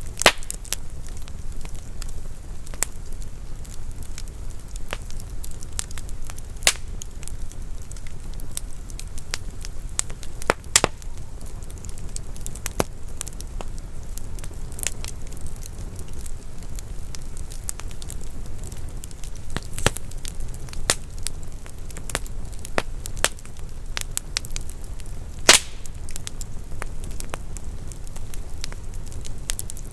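Wood fire burning in a fireplace: a steady low rumble of flames with irregular crackles and sharp pops of burning logs, the loudest pops just after the start and about 25 seconds in.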